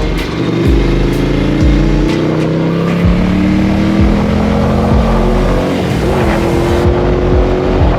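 Motorcycle engine accelerating hard, its pitch climbing steadily for about five seconds before a brief dip and wobble, then holding steady. Music with a low thudding beat plays underneath.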